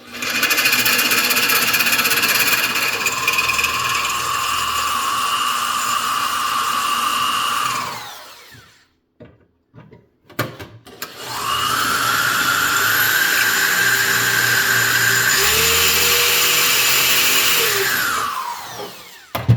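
Electric drill run twice, for about eight and then about seven seconds, drilling out the rivets that fix fan blades to their hub; each run winds down with a falling pitch as the trigger is let go. The rivets are not coming out easily.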